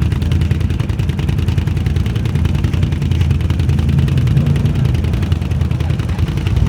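4x4 ATV engine running hard, a loud, steady low-pitched drone with a rapid pulsing beat.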